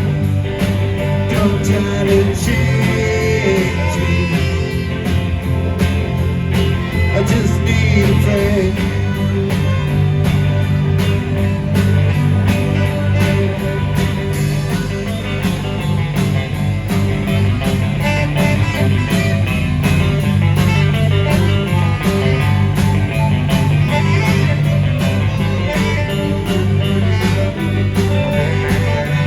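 Live rock band playing an instrumental passage: guitar to the fore over bass and drums keeping a steady beat.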